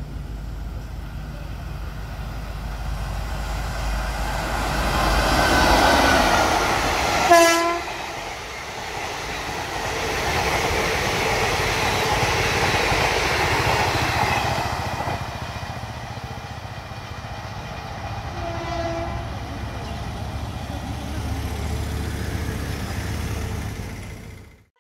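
WAP4 electric locomotive hauling a parcel express past at over 100 km/h: a rising rush of wheels and air, a short horn blast as it draws level, then the steady rumble of the coaches rolling by. A second, fainter short horn sounds later as the train noise dies down, and the sound cuts off just before the end.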